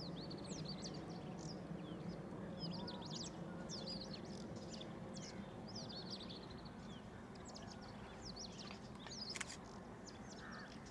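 Many small birds chirping, with short, quick, high calls one after another throughout, over a steady low background hum. A single sharp click near the end.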